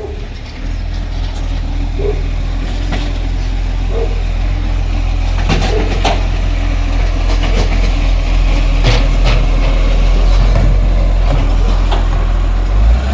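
Garbage truck engine running with a steady low rumble that builds over the first second, with several sharp clanks and knocks through the middle.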